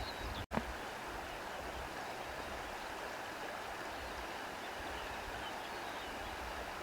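Steady rushing nature ambience, an even hiss of moving air or water, broken by a brief dropout and click about half a second in.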